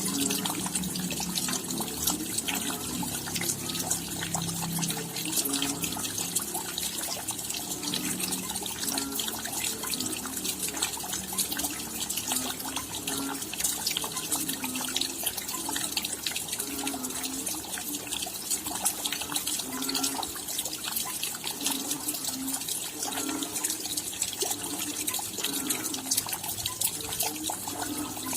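Steady rain: a dense patter of many small drops, with scattered low, hollow-sounding drips among them.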